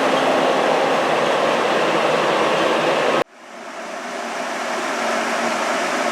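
Steady rumbling mechanical noise with a faint hum. It cuts out abruptly about three seconds in, then fades back up over the next couple of seconds.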